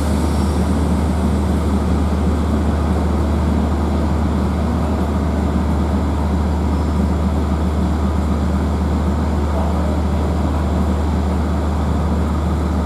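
Diesel locomotive engine running steadily close by: a deep, even hum with no change in speed.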